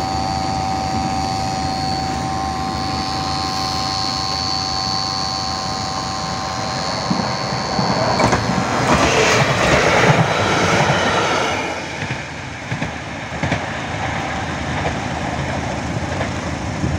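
A level crossing's warning signal sounds steadily. Then an SA139 diesel multiple unit passes, the rush of its engine and wheels loudest from about eight to twelve seconds in before fading.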